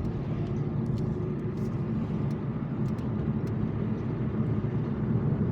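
Steady road and engine noise from inside a moving car's cabin, with scattered faint ticks.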